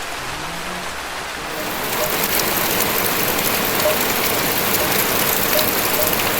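Rain falling steadily; about two seconds in it grows louder and hissier.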